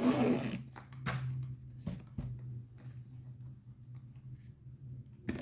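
Rustling and small clicks from handling plastic bags and containers, with a brief louder rustle at the start, over a steady low hum.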